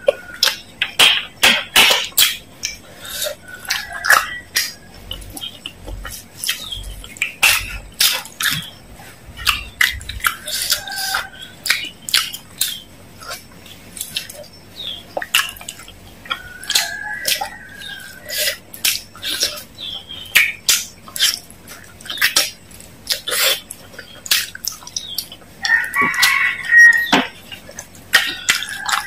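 Close-miked wet chewing and lip smacking while eating fried chicken meat: a steady run of sharp mouth clicks, with a few short high-pitched squeaks, the loudest near the end.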